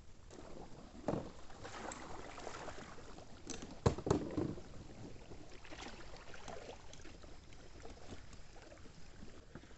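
Kayak paddle strokes splashing in the water, with a few sharp knocks of the paddle against the hull, the loudest cluster about four seconds in.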